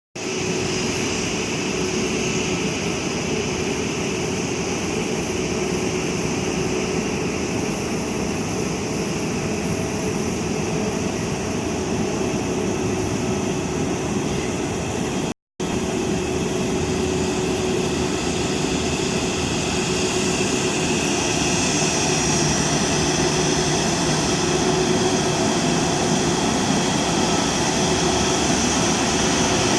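Airliner jet engines (Rolls-Royce Trent 7000 turbofans of an Airbus A330-900neo) running steadily: an even rush with a low hum and a high whine. It cuts out for a moment about halfway, then grows slightly louder in the last third.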